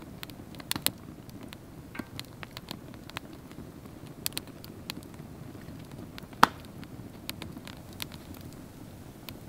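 Campfire crackling over a low steady hiss, with scattered irregular pops and one loud pop a little past the middle.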